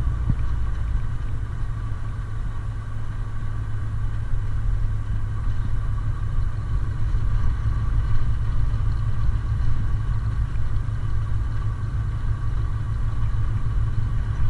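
Kenworth T660 semi truck's diesel engine running steadily under way, a deep rumble with a steady whine on top, heard from inside the cab.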